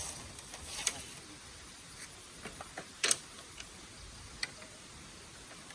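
A few scattered, irregular sharp clicks and snaps, the loudest about three seconds in, over a low steady hiss.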